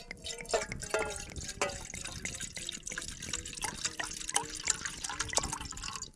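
Wood campfire crackling with frequent sharp pops over a steady hiss, with thin wavering whistles rising and falling through it.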